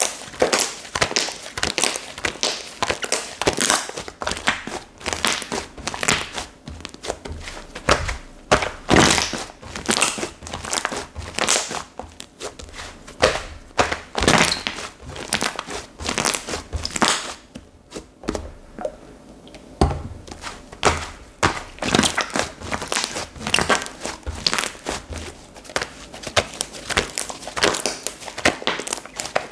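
Slime being squished and worked by hand: a dense, irregular run of small crackling pops and squelches, with a short quieter stretch a little past the middle.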